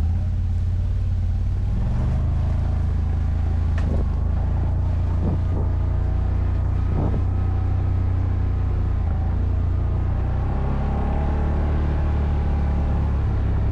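ATV engine running steadily at low revs while riding off-road, its pitch shifting a little now and then.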